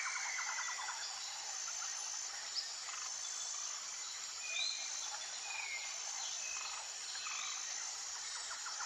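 Outdoor natural ambience of insects and birds: a steady high insect drone, a rapid trill that stops about a second in, and a few short chirps near the middle.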